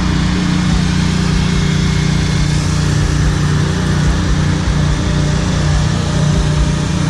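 A small engine running steadily at an even pitch, with a constant hiss over its low hum.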